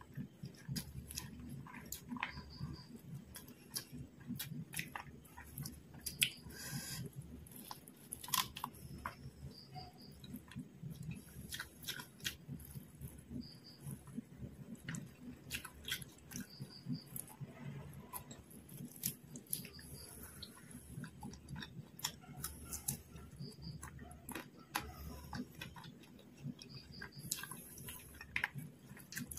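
Close-miked chewing and biting of fried quail and biryani rice, with many irregular mouth clicks and small crunches.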